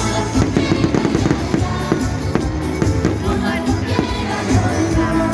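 Fireworks popping and crackling in quick irregular bursts over loud festival music.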